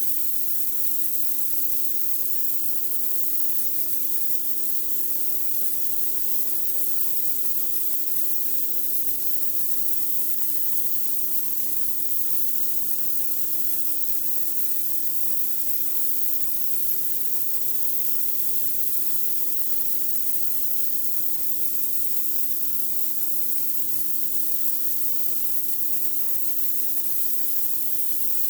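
Pressure washer blasting a concrete driveway: a steady high hiss of the water jet, with an even hum from the machine underneath.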